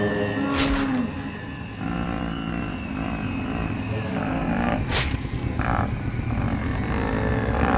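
Horror sound-effect track: a low rumble with two sharp cracks about four seconds apart, and a held tone from the preceding effect dying away about a second in.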